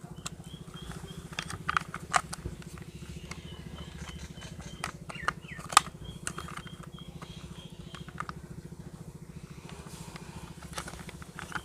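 Plastic toy car parts clicking and knocking as a monster car's body is pressed onto its chassis, a few sharp clicks with the loudest about six seconds in, over a steady low hum.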